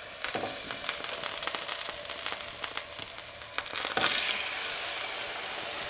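Raw boneless, skinless chicken thighs sizzling in hot vegetable oil in a nonstick frying pan on high heat, with steady crackling and spitting. The sizzle surges louder about four seconds in as another thigh is laid into the pan.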